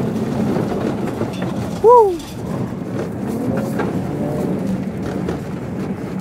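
Mercedes-AMG GLE 53 Coupe's turbocharged inline-six working hard as the SUV power-slides on loose dirt, its tyres scrabbling over the ground. A brief, loud falling tone about two seconds in.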